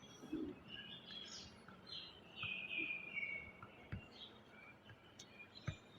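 Faint birds chirping in the background, a series of short high chirps and falling slurs, with a few soft clicks.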